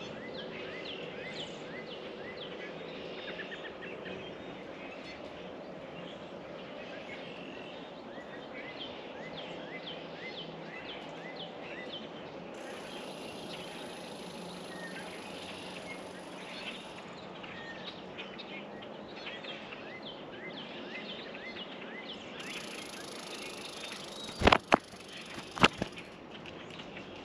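Small songbirds chirping over and over in short, quick notes over a steady outdoor background hiss, with two loud sharp knocks near the end.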